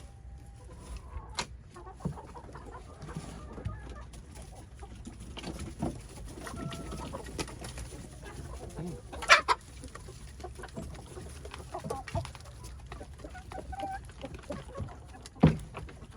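Backyard chickens clucking, with scattered small clicks and knocks. Two loud sharp sounds stand out, about nine seconds in and near the end.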